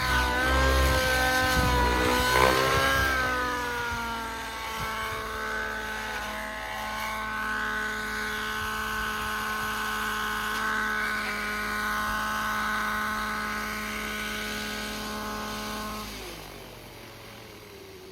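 Radio-control helicopter's nitro glow engine and rotor running, the pitch wavering for the first few seconds and then holding steady. About sixteen seconds in, the sound drops away and its pitch falls.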